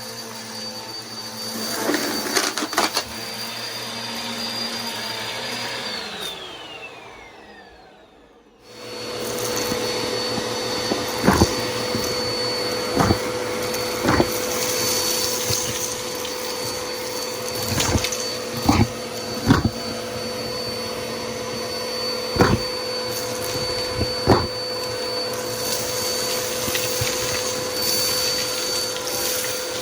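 Bissell PowerForce Helix upright vacuum running with a steady whine, then switched off, its motor winding down with a falling whine. A couple of seconds later a vacuum starts abruptly and runs steadily, with about eight sharp knocks or clicks scattered through it.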